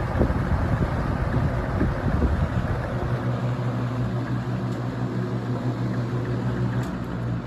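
Early-1990s Toastmaster 4437 box fan running, a steady motor hum under the rush of air from the blades. Uneven low rumbling in the first few seconds comes from vibration of blades that are out of balance, and there is a faint click near the end.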